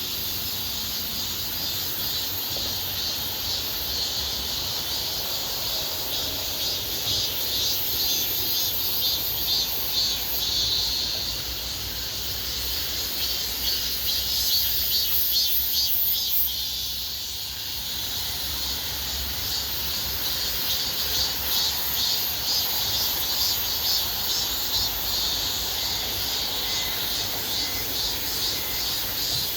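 A dense chorus of cicadas and crickets: steady, shrill, fast-pulsing buzzing and trilling that swells a little midway.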